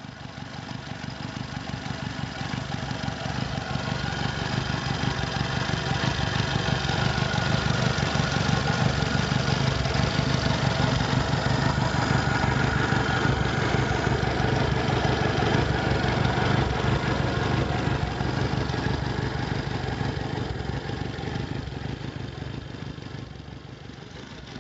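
MV Agusta 750 America motorcycle's air-cooled inline-four engine idling at a steady pitch. It grows louder over the first several seconds and eases off a little near the end.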